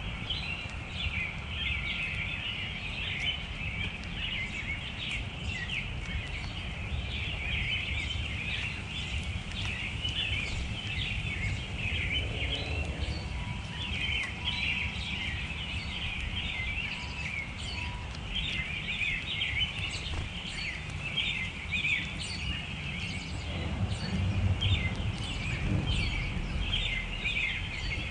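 Many small birds chirping and twittering at once, a dense, unbroken chatter, over a steady low rumble.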